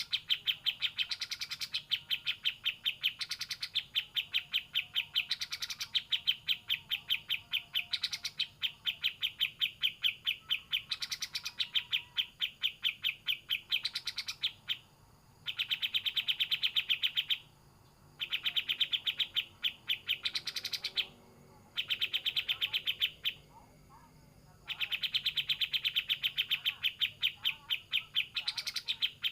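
A kapas tembak bird singing a fast, rattling string of sharp chirps in long runs, broken by a few short pauses.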